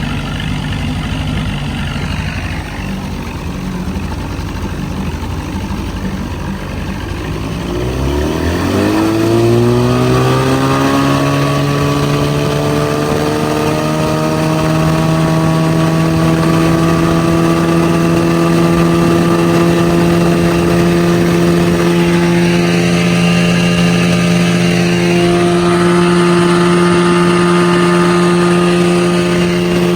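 Older 30-horsepower two-stroke outboard motor running, throttled up about eight seconds in: its pitch climbs over a few seconds, then holds steady at speed.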